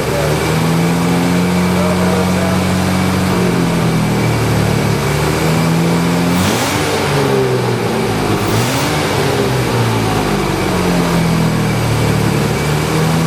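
Jaguar E-Type's rebuilt V12 engine running on its first start after a complete rebuild, with the revs rising and falling twice about halfway through.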